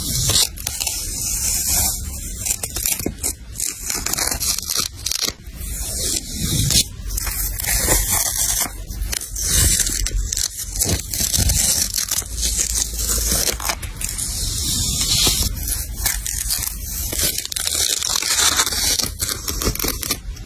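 Close-miked paper and washi tape being handled on a journal page: irregular scraping, rustling and tearing strokes.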